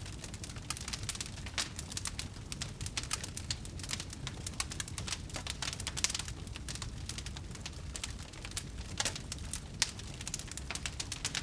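Wood fire burning in a fireplace, crackling with dense, irregular small pops over a low steady rumble, with a few louder pops among them.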